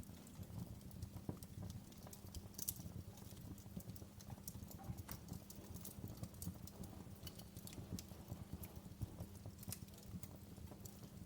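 Wood fire crackling in a fireplace: many irregular, sharp little pops and snaps over a low, steady rumble.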